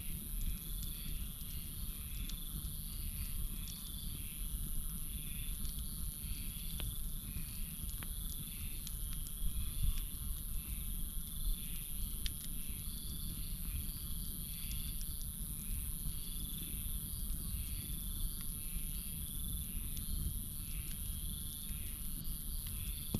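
Campfire burning with a low steady rumble and scattered sharp crackles, under a night chorus of crickets and frogs: a constant high-pitched insect drone and a chirping call repeated over and over.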